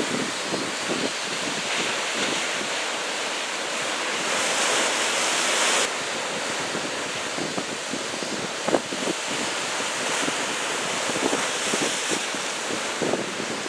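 Ocean surf from a typhoon swell, a steady rushing wash with wind buffeting the microphone in short low thumps. A louder rush builds about four seconds in and stops suddenly under two seconds later.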